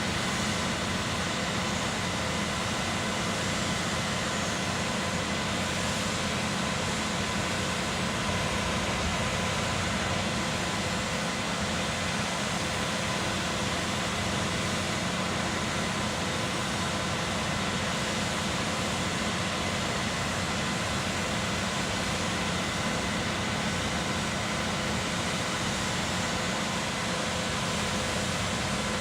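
Concrete pump truck's engine running steadily, a constant drone with faint whining tones.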